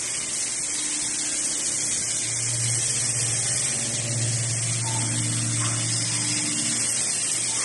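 Workshop machinery running steadily: a high hiss over a low hum that swells for a few seconds in the middle.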